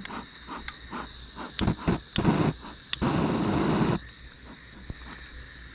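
A gas torch's igniter clicking several times without lighting, with about a second of rushing noise around three seconds in. The torch may be running out of gas.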